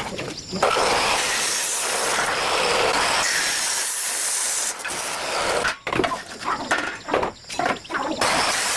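A steady, loud hiss that breaks into short on-off bursts about six seconds in, then runs steady again near the end.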